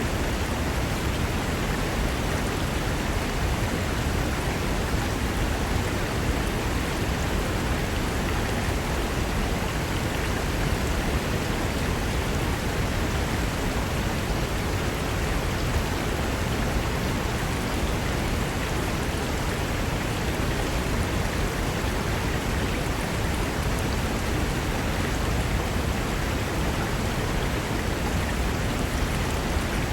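Mountain river rushing over rocks: a steady, unbroken wash of white water, heaviest in the low rumble.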